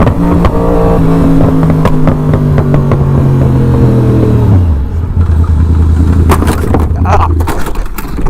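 A car engine running, its pitch falling slowly for about four seconds, then dropping to a lower steady note that stops shortly before the end. Scattered clicks are heard throughout.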